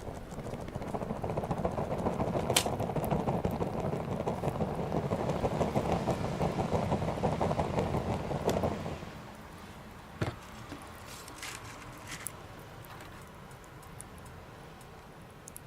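Small wood fire in a mini stainless-steel fire stand crackling. A dense run of crackling for about the first nine seconds dies down suddenly, leaving quieter burning with a few sharp pops.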